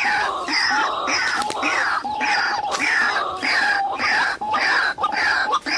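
White-breasted waterhen (ruak-ruak) calling loudly, a rapid unbroken series of harsh, falling calls at about two to three a second.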